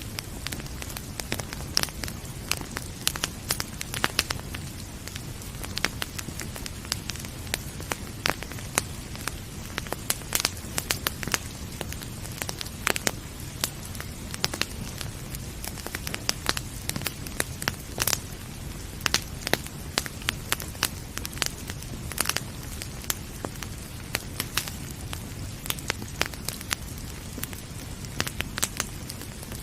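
Wood fire crackling in a fireplace: frequent irregular sharp pops and snaps over a steady low rush.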